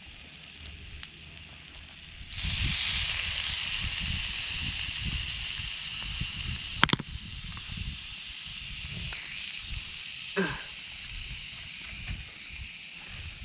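Meat sizzling on a small iron griddle plate over a campfire. The hiss starts suddenly about two seconds in, then slowly eases off, with a sharp click near the middle.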